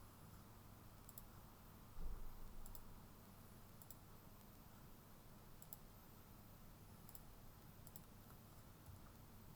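Faint computer mouse clicks, scattered irregularly, often in quick pairs, over a steady low hum, with one low thump about two seconds in.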